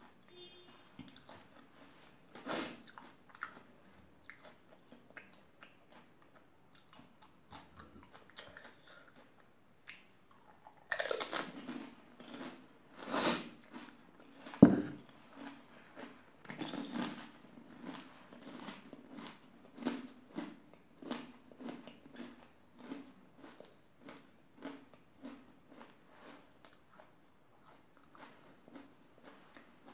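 Close-up chewing and crunching of pani puri, the crisp fried puri shells breaking between the teeth. A few louder crunches come near the middle, followed by steady, rhythmic chewing that slowly quietens.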